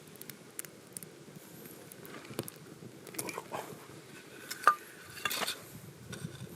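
Metal camp cookware and utensils clinking and knocking as they are handled, in scattered small clicks. One sharp, briefly ringing clink comes about four and a half seconds in.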